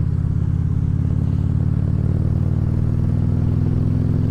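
Harley-Davidson Ultra Classic Limited's V-twin engine running steadily under way, its pitch rising slightly in the second half.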